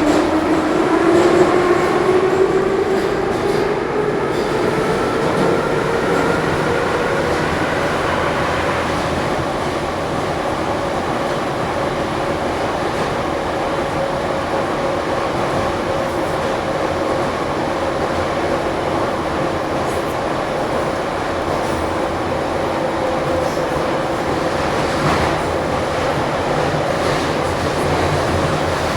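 Ezh3 metro car's traction motors whining, rising in pitch over the first several seconds as the train accelerates, then holding a steady pitch at running speed over constant running noise.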